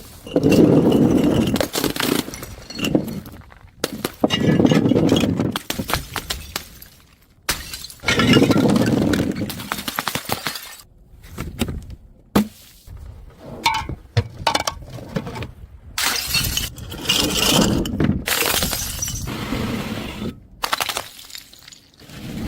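Glass bottles smashing on hard steps, one after another: a string of sudden loud crashes of breaking glass, one every two to four seconds.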